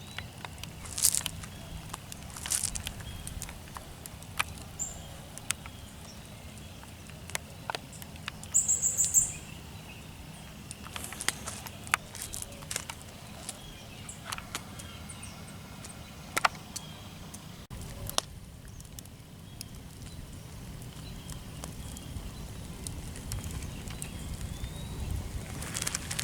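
Outdoor ambience: a steady low rumble with scattered clicks and knocks, and a short burst of high bird chirps about nine seconds in.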